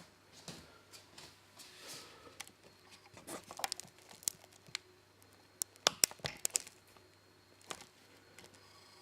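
Crinkling and rustling, with a cluster of sharp clicks and taps in the middle.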